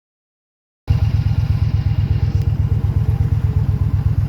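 Motorcycle engine idling with an even, low, pulsing rumble, cutting in abruptly about a second in.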